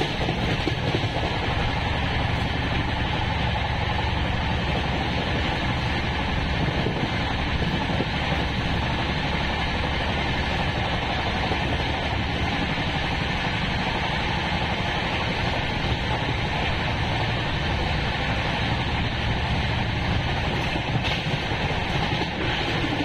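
Steady rushing noise of an Indian Railways express train running at speed, heard from on board: wheels rumbling on the rails, with wind noise.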